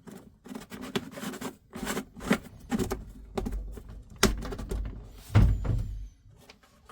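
Handling noise from diesel heater parts being fitted by hand: a string of clicks, knocks and scrapes, with two heavier thumps about four and five and a half seconds in.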